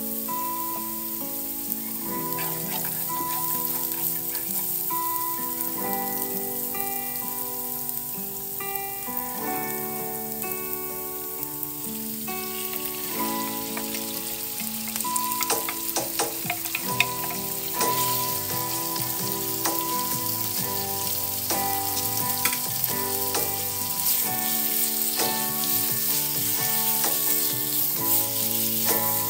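Food sizzling as it fries in oil, with scattered crackles, under background music with a simple melody. The sizzle grows louder and busier about halfway through.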